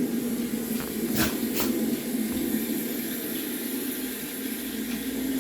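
Recorded storm sounds playing for noise desensitization: a steady rain-like hiss, with three small clicks about a second in.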